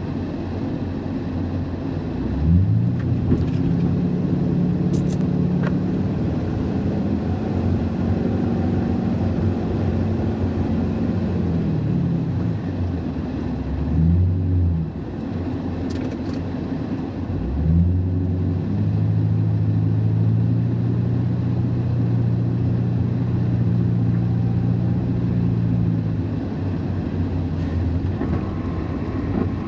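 Ford F-350 pickup's 5.4-litre V8 engine running. Its note rises and holds for about ten seconds, drops, rises briefly once more, then rises and holds again for about eight seconds before settling.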